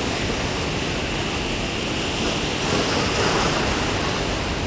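Strong sea waves breaking against the shore: a continuous rushing surf that swells a little around the middle.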